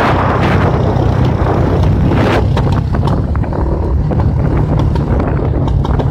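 Wind buffeting the microphone during a moving ride, over the steady hum of a vehicle's engine, with a few sharp clicks or rattles.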